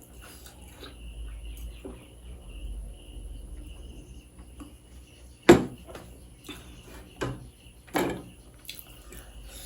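Close-up eating sounds: soft chewing, then three louder wet mouth sounds, about halfway in, a second and a half later, and just after. Crickets chirp steadily in the background.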